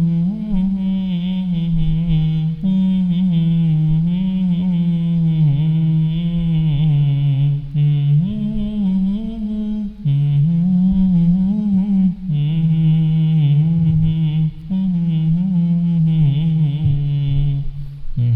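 Background vocal music: a low voice humming long held notes that slowly bend and change pitch every few seconds, with brief breaks between phrases.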